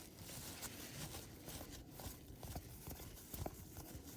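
Faint, irregular clicks and taps of baseball cards being handled and flipped through one after another.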